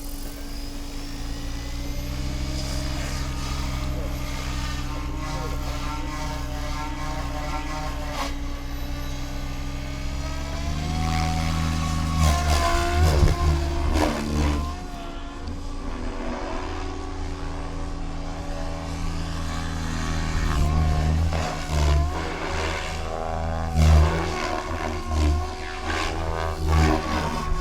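Electric radio-controlled helicopter (Goblin 630) running, its main rotor making a steady whirring drone. About eleven seconds in it gets louder, and the pitch of the motor and blades shifts up and down as the helicopter is flown, with several short loud surges.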